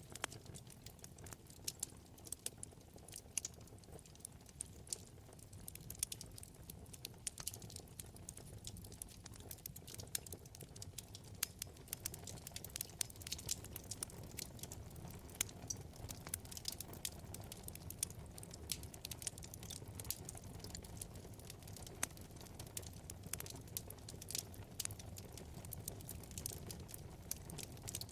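Wood fire crackling in a fireplace: frequent small sharp pops and snaps at irregular intervals over a low steady rumble of burning flames.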